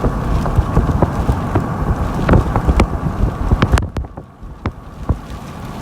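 Vehicle cabin noise while driving, with road and wind noise and many sharp knocks and clicks from the phone on the dashboard shaking. The noise drops off briefly about four seconds in, then comes back.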